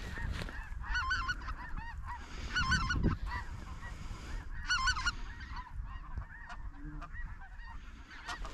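Snow goose calls: clusters of high, yelping honks in quick overlapping bursts about a second in, near three seconds and near five seconds, with fainter calls between.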